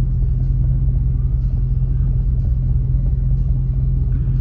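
Steady low rumble of a car's engine and road noise heard from inside the cabin as the car drives slowly.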